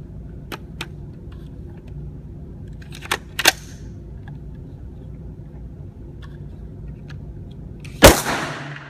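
Gunshots at a shooting range: a few faint shots early on, a pair of sharper shots about three seconds in, and one much louder close shot near the end that rings out and dies away, over a steady low hum.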